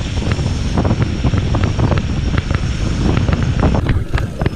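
Wind buffeting the GoPro microphone on a mountain bike riding a rough road, a heavy rumble with many sharp rattles and clicks from the bike jolting over bumps.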